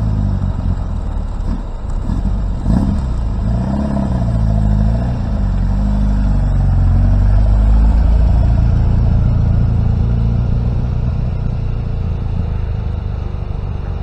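Small classic sports coupé's engine revving as the car pulls away, its pitch rising and falling several times as it works through the gears. It is loudest as the car drives past about eight seconds in, then grows fainter as it drives off.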